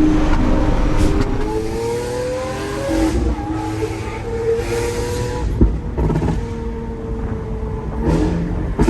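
Lamborghini Aventador S's V12 through a Gintani F1 straight-pipe exhaust, revving hard: its pitch climbs and then drops back at several gear changes. There is one sharp crack about halfway through.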